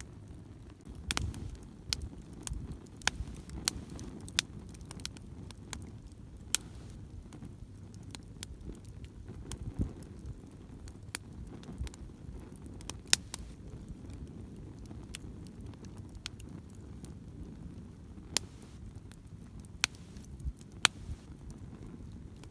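Driftwood campfire crackling: sharp, irregular pops and snaps over a low, steady rumble of the burning fire.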